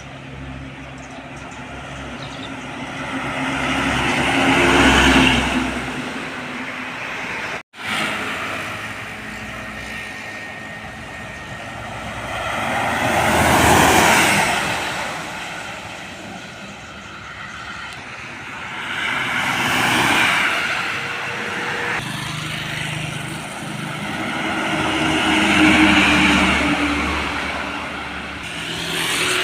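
Road vehicles passing by one after another, each one's engine and tyre noise rising and fading; there are four pass-bys. The sound cuts out briefly about eight seconds in.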